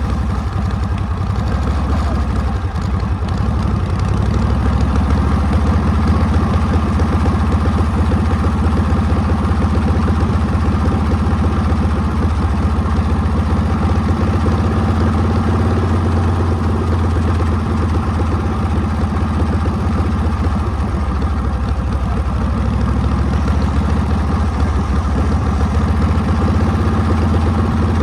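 Harley-Davidson Panhead V-twin engine running steadily under way, its pitch sagging a little through the middle and climbing back near the end.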